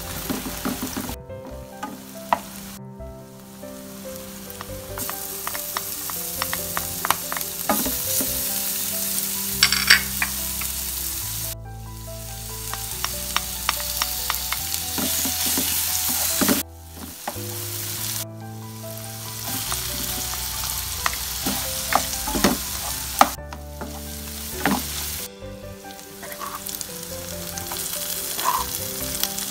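Egg and then other stir-fry ingredients sizzling in hot oil in a non-stick frying pan while a spatula stirs and scrapes, with sharp clicks of the spatula against the pan. The sizzle breaks off abruptly several times.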